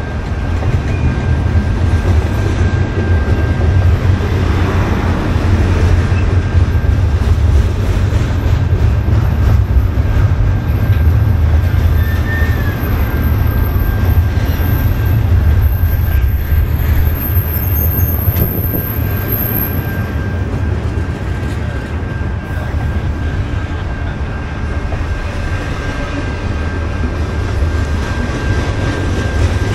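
A train rolling past on the rails, a steady heavy rumble from the cars and wheels, with a thin steady whine above it.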